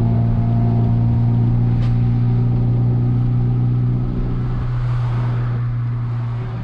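Honda Civic EK4's four-cylinder engine droning steadily at cruising speed, heard from inside the cabin, with road and wind noise. About four seconds in the engine note dips briefly and a rush of noise swells, then the sound fades out near the end.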